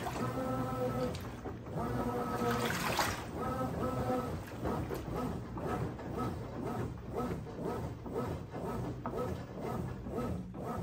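Brastemp 17 kg washing machine in its wash cycle: the motor hums in strokes about a second long with short pauses, then gives way to a busier churning of water and laundry in the drum.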